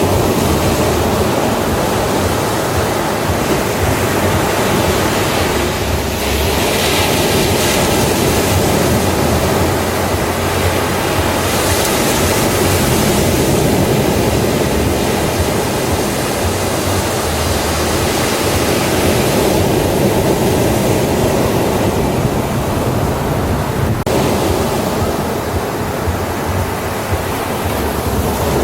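Ocean waves breaking and washing on a beach as continuous surf, swelling a little louder and brighter a few times.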